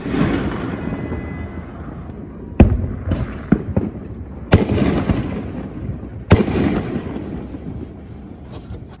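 Aerial fireworks bursting overhead. Big booms come about two and a half, four and a half and six seconds in, with smaller pops between, and each boom trails off in a rumbling echo.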